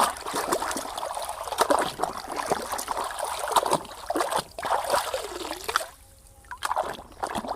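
Water splashing and trickling over a muddy toy vehicle as it is rinsed by hand, in a run of short splashes that stops briefly about six seconds in.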